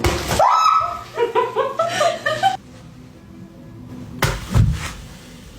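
A sudden sharp bang, then a rising cry and a quick run of laughter climbing in pitch. About four seconds in come two heavy thumps close together.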